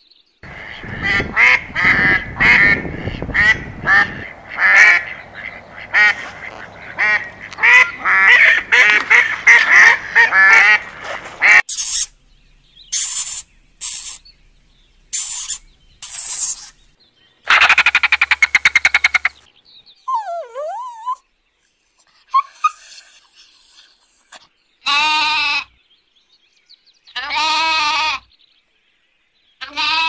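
A succession of different animal calls: a dense run of short repeated calls for about twelve seconds, then several brief high-pitched bursts and a buzzing call, and near the end lamb bleats, three times.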